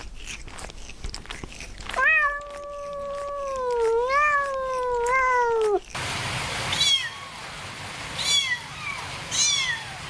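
A cat's long drawn-out meow, wavering in pitch and lasting about four seconds. Then short high-pitched mews, repeated about once a second.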